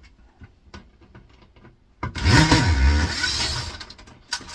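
A handheld power tool's electric motor whirring for about two seconds, its pitch rising and then falling, after a couple of seconds of faint handling clicks. This fits a power driver run while removing the heating element's fixings.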